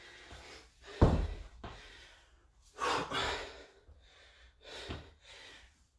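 A man breathing hard after a set of exercise: a few loud gasping breaths and sighing exhalations. The loudest starts sharply about a second in.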